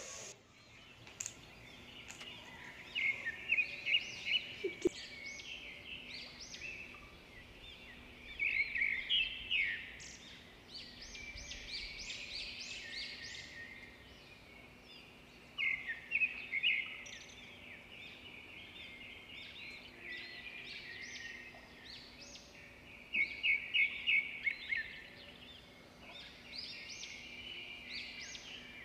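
Birds chirping in repeated groups of quick, high calls, several times over.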